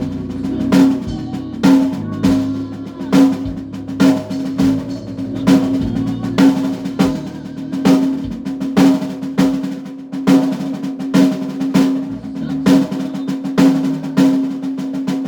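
Live band music: a drum kit playing a steady beat with a hard snare hit roughly every 0.8 seconds and fills between, over a held low note.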